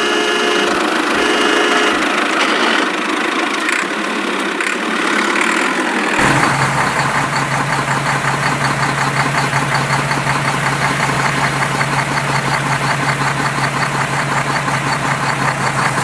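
Vehicle engine idling with a fast, even chugging, coming in suddenly about six seconds in after a stretch of mixed mechanical sounds.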